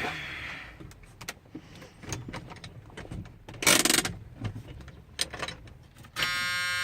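Scattered clicks and knocks of handling in the truck cab, with a louder rustling thump about halfway. Near the end the 1978 Ford F-250's dashboard warning buzzer comes on suddenly with a steady buzzing tone as the ignition is switched on, before the engine is cranked.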